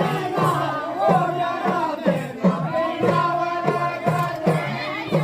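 A group of voices singing a Kumaoni jhoda folk song together, with a steady low beat about twice a second under the singing.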